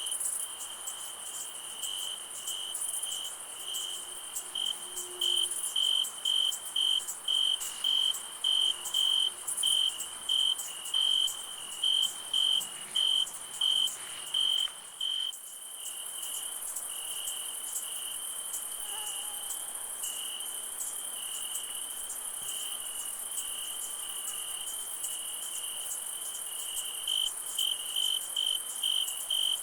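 Crickets chirping at night: one chirps in an even rhythm of about two chirps a second, stops about halfway through and starts again near the end, over a continuous high-pitched insect trill.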